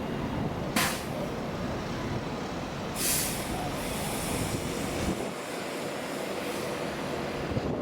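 Train at a station platform, a steady rumbling noise with a short sharp burst about a second in and a brief hiss of air about three seconds in.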